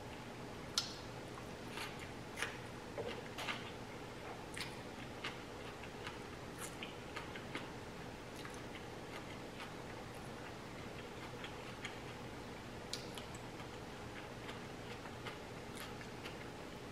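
Close-miked eating sounds: soft, irregular mouth clicks and smacks from chewing a black bean burger and fries, over a faint steady hum.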